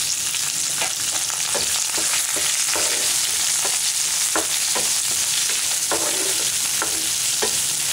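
Chopped onions, green chillies, curry leaves and dried red chillies sizzling steadily in hot oil in a pan. A wooden spatula stirs them, tapping and scraping the pan about a dozen times as the onions begin to sauté.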